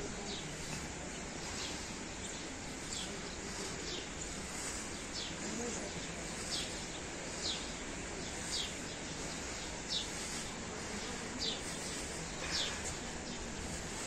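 A bird calling over and over with short, high, downward-sliding chirps, roughly one a second, over a steady outdoor hiss.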